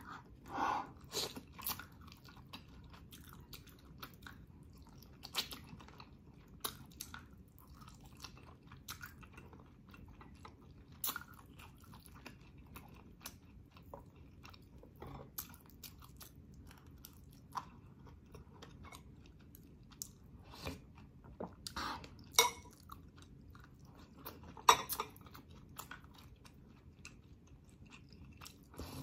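Close-up chewing and biting of boiled pork hock meat, with irregular short mouth clicks and smacks, two of them louder about 22 and 25 seconds in.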